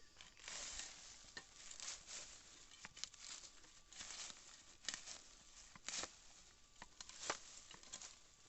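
Loose soil being dug and scraped with a hand digging tool while searching for a detected target: irregular short scrapes and the crumble of dirt, a few sharper ticks among them.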